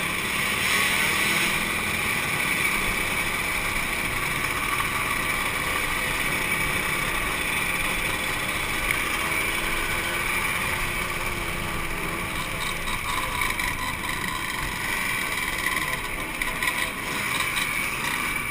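Two-stroke motorcycle engines running steadily.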